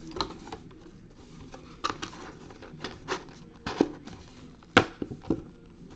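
Irregular taps and clicks from objects being handled on a table, about ten in all, with the strongest near the end.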